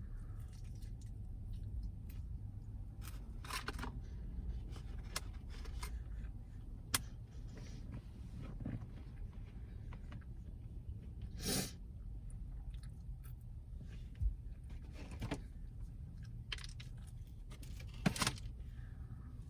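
Mukbang eating sounds: chewing breaded chicken tenders, with scattered small clicks and about five louder crunching or rustling noises, over a low steady rumble.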